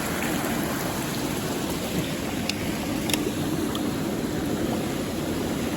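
Mountain stream rushing steadily over rocks, an even wash of water noise, with a couple of faint ticks about halfway through.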